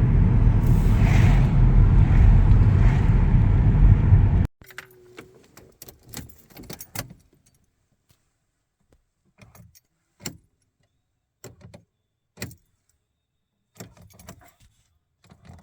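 A loud low rumble that cuts off abruptly about four and a half seconds in, then a series of irregular sharp clicks from the Audi, which clicks but won't crank when started.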